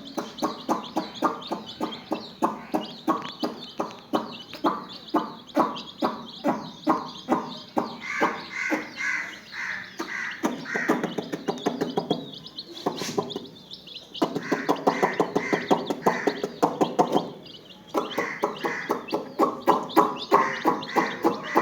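Chickens clucking in a fast, continuous run of short calls, about three a second, breaking off briefly twice.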